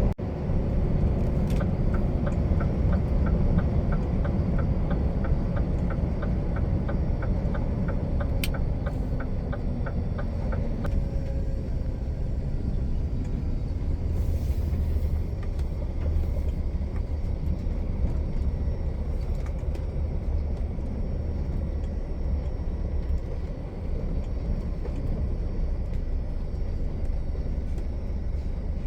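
Truck driving on the road, its engine and tyres making a steady low rumble. A fast, even ticking of about two or three clicks a second runs through the first ten seconds or so.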